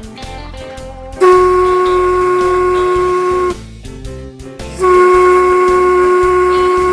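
Steam whistle blown twice, two long steady blasts of about two seconds each with a hiss of steam, over background guitar music.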